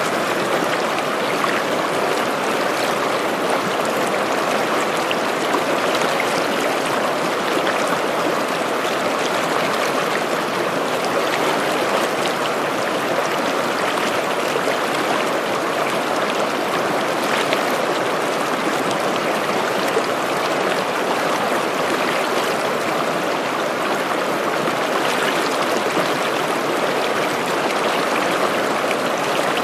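A small stream babbling over rocks: steady rushing and gurgling water with little splashes here and there.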